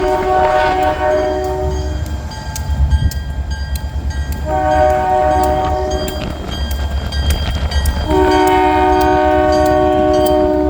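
Locomotive air horn sounding a chord of several notes in three blasts: one ending about two seconds in, a shorter one in the middle, and a long one starting near the end. A steady low rumble of the train runs underneath, with scattered sharp clicks.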